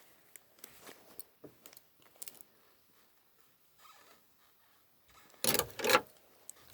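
A cat toy being handled: small clicks and rustles, then a loud scraping rustle in two quick strokes about five and a half seconds in.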